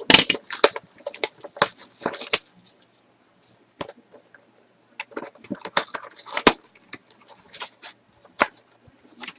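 A sealed trading card box being unwrapped and opened by hand: plastic wrap and cardboard crackling and snapping in quick bursts, with a pause of about two seconds partway through.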